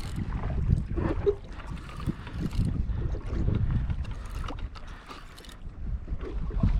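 Wind buffeting the microphone over water splashing and lapping against a kayak hull, with scattered knocks. It eases a little about five seconds in.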